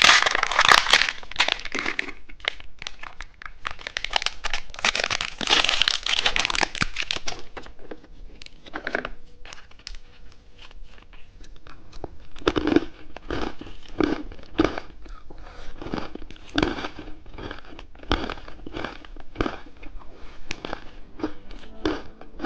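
Plastic candy wrapper crinkling and tearing as a toy-car surprise egg candy is unwrapped, in two spells at the start and again a few seconds in, followed by many short, irregular clicks and cracks.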